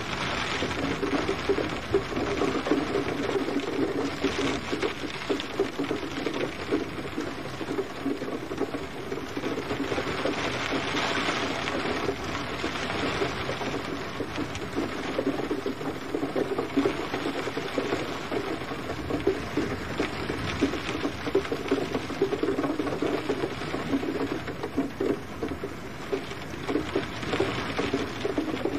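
Gentle rain falling steadily, a dense, even spatter of drops.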